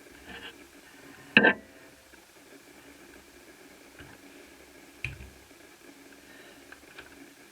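A single loud knock about a second and a half in, then a couple of lighter clicks, over a faint steady hum.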